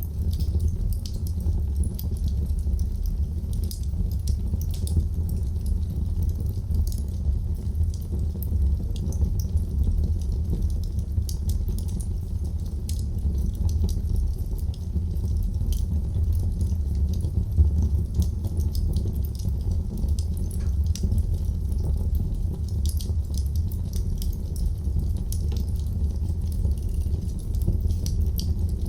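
Wood fire crackling in a fireplace: many small, sharp pops and snaps over a steady low rumble of burning.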